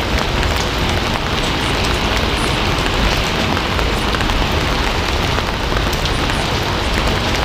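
Steady, heavy rainfall: a dense, even hiss of drops that holds at one level with no lulls.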